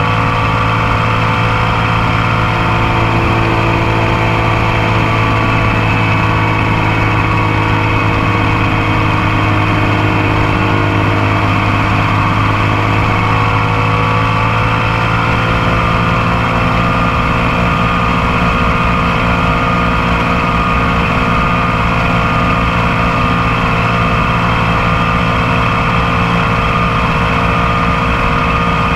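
Motorcycle engine running steadily, picked up close by a camera on the passenger foot peg, its pitch shifting slightly about halfway through.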